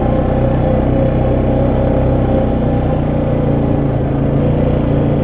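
ATV engine running at a steady, even speed while riding along the trail.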